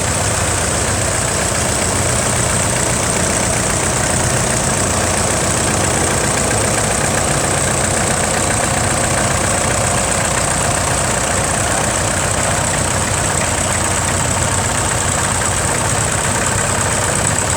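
Vintage tractor engines running steadily at low speed, with a steady high hiss over them.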